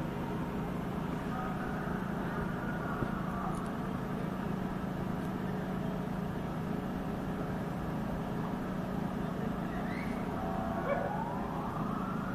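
Steady street traffic with a constant engine hum. About eleven seconds in, a siren starts and its wail rises in pitch.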